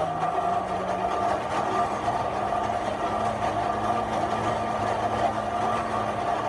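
A blacksmith's forge running steadily, with a constant rushing noise and a low mechanical hum that shifts slightly in pitch.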